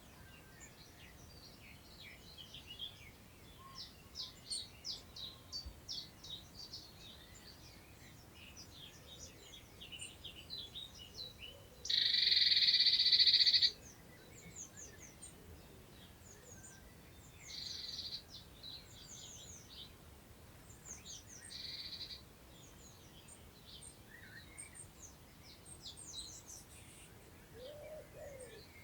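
Songbirds chirping in the countryside, with many short, high notes throughout. About twelve seconds in, one loud, dense, buzzy call lasts under two seconds; two shorter, fainter ones follow. Low cooing begins near the end.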